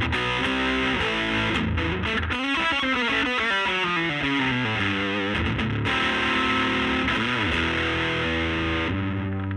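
Electric guitar with P90 pickups played through the gain channel of a Laney Lionheart L5 Studio valve amp and a 15-inch Jensen Alnico speaker: an overdriven run of single notes with slides and bends, ending on a chord left to ring near the end.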